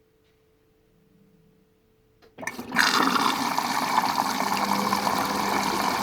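Hoover Vision Dynamic DYN9154DBX washing machine in its test cycle: a faint steady hum, then a little over two seconds in the water inlet valve opens and water suddenly rushes into the machine, running on steadily as it fills.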